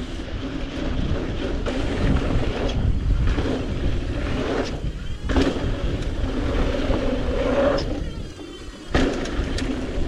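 Strong gusting wind buffeting the microphone of a mountain bike rider heading into a headwind, a continuous low rumble. It drops away for about a second near the end, then picks up again.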